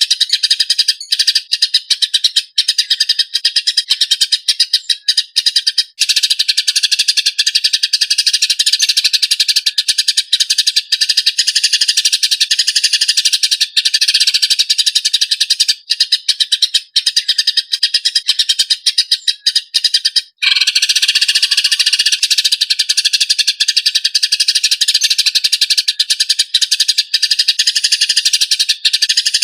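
Eurasian tree sparrows (burung gereja) chirping in a fast, tight, rough chatter, the fighting call of the species, with a brief break about twenty seconds in.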